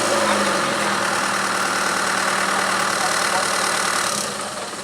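A vehicle engine running steadily, fading down about four seconds in.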